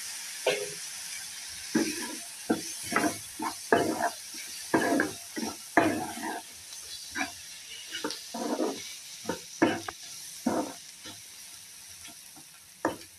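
Onions, mushrooms and spices sizzling in oil in a kadhai, stirred and scraped with a perforated metal skimmer: a steady hiss under many short, irregular scraping strokes.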